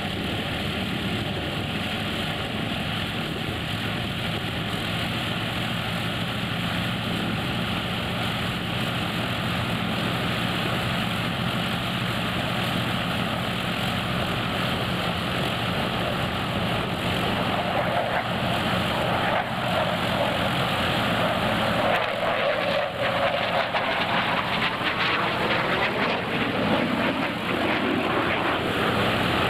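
Propeller airplane flying past, its steady engine drone growing louder in the second half, with sweeping shifts in tone as it passes.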